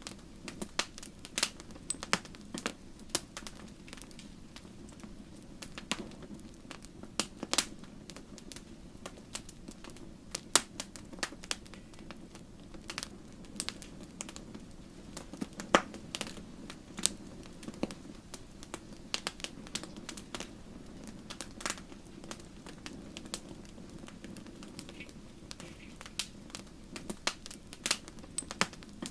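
Wood fire burning in a fireplace: irregular sharp pops and crackles from the logs, the loudest about halfway through, over a steady low rush of the flames.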